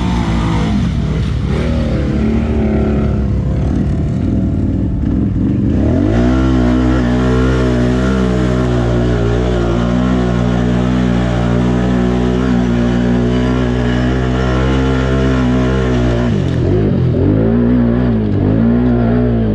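ATV (quad) engine under hard throttle in mud: the revs shift for the first few seconds, then hold steady at high revs for about ten seconds before dropping and rising again near the end.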